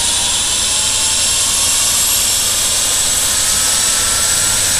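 Rescue helicopter's turbine engine and rotor running steadily and loudly, a high whine rising slowly in pitch over the rotor's low beat.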